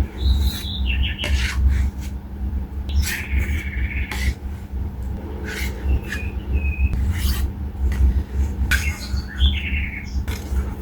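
Birds chirping and calling in short phrases throughout, over a steady low rumble, with a few sharp clicks scattered in between.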